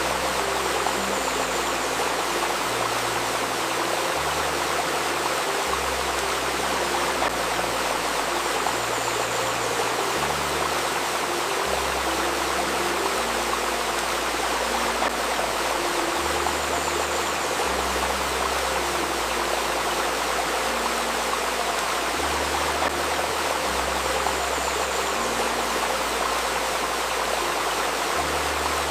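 Shallow river babbling steadily over stones, with soft low synthesized tones underneath that change pitch every second or two.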